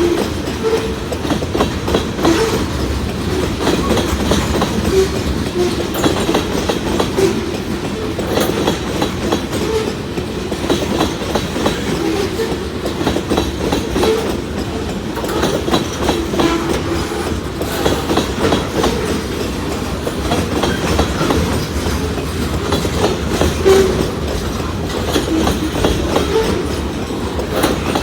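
Loaded freight cars of a CSX train rolling past at steady speed: a continuous rumble of steel wheels on rail with many sharp clicks as wheels pass over rail joints.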